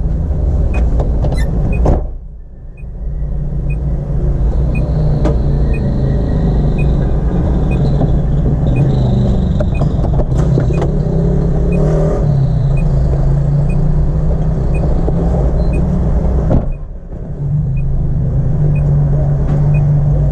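Car engine idling with a steady low hum, heard from inside the cabin, with a light tick about once a second. The hum drops away briefly twice, about two seconds in and near the end.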